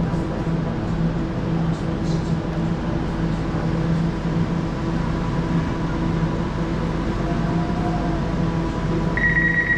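Elizabeth line Class 345 train running, a steady rumble with a constant electric motor hum. A high steady whine comes in near the end, the start of wheel squeal.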